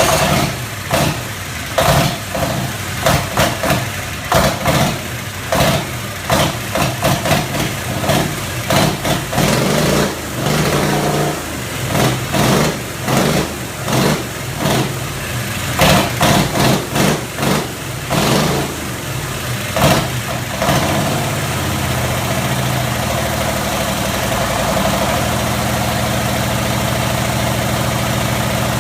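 Twin-turbo diesel engine of a custom motorcycle running on its first test fire: for about twenty seconds it surges and dips unevenly, then settles into a steady idle.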